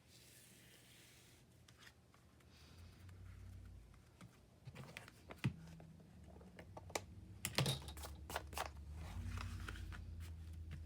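Paper and card being handled and folded on a work table: a soft rustle, then a scatter of light sharp taps and clicks.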